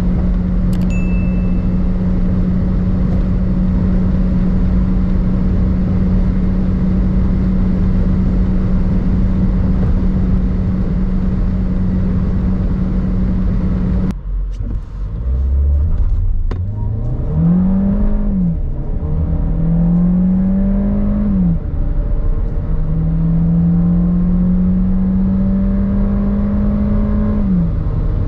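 Seat Ateca FR's 1.5 TSI turbo four-cylinder engine held at a steady pitch under heavy road and wind noise at high speed. About halfway through the sound changes abruptly. The engine then pulls hard again, its pitch rising three times, each rise ending in a quick drop as the DSG gearbox shifts up.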